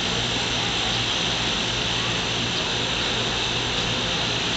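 Steady background hum with an even hiss, unchanging throughout, like a fan or motor running near the microphone.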